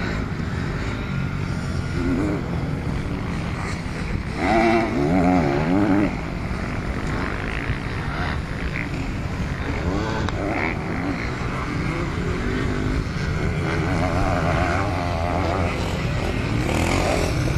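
Motocross bike engines running on the track, the pitch rising and falling as the bikes rev through the course. The revving is loudest about four to six seconds in and swells again near the end.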